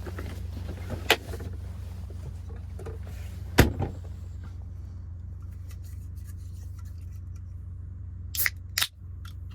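A few knocks and clatters of a cooking pot and utensils being set down and handled, the loudest about three and a half seconds in and two close together near the end, over a steady low hum.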